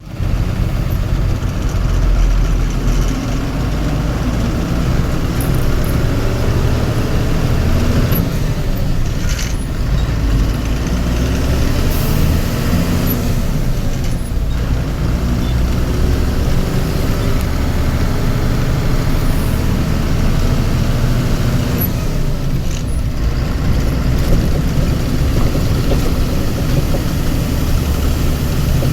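Heavy vehicle engine running steadily at road traffic, a loud low rumble with its pitch rising and falling slightly as engine speed changes.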